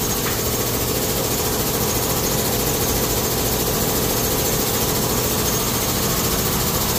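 An engine or motor running steadily, with no change in speed.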